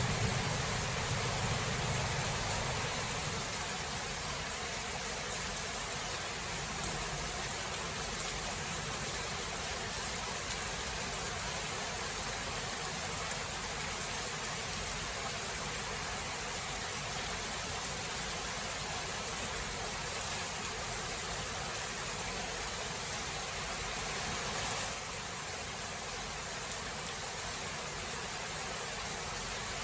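Steady hiss of heavy thunderstorm rain, with the tail of a thunder rumble dying away in the first couple of seconds; the rain eases slightly about 25 seconds in.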